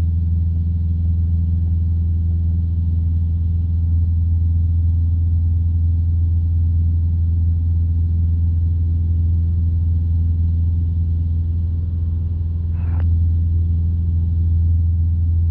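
Light aircraft's piston engine and propeller droning steadily in the cockpit during flight, a deep unchanging hum at a constant power setting.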